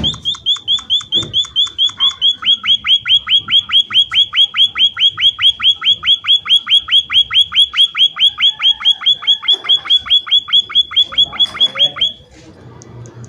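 An emprit (munia) calling vigorously in a long, fast, even series of sharp notes, about four or five a second, each falling steeply in pitch. The calling stops abruptly about twelve seconds in.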